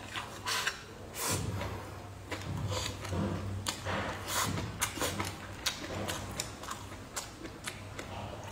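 Close-miked eating sounds: a person biting and chewing fried fish, with many small wet clicks and smacks of the mouth and chopsticks.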